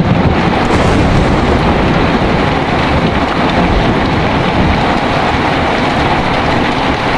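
Heavy rain pouring steadily, with a low, continuous rumble of thunder underneath.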